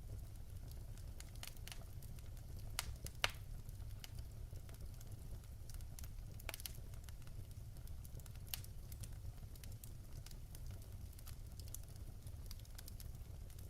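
Fireplace fire crackling: scattered sharp pops and snaps, the loudest about three seconds in, over a steady low rumble.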